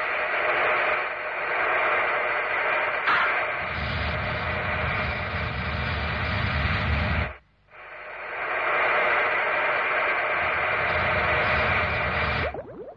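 A steady rushing hiss from a cartoon sound effect, with a deep rumble under it for a few seconds in the middle; it cuts out briefly just past halfway, then runs on and stops shortly before the end.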